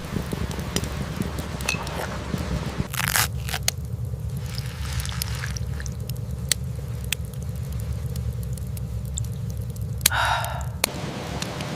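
Crunchy chewing and bites of food, with two louder crunching bursts about three seconds in and near the end. Underneath are a steady patter of rain and the scattered small pops of a crackling campfire.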